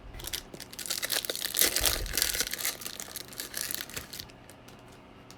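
Foil wrapper of a Bowman Chrome baseball card pack being torn open and crinkled. The crackling is dense for about four seconds, then dies away.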